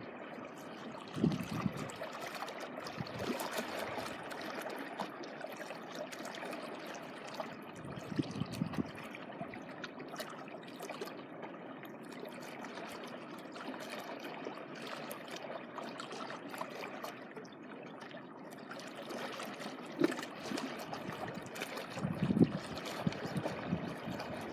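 Seawater washing and trickling along the shore in a steady wash, with a few brief low thumps about a second in, around the middle and near the end.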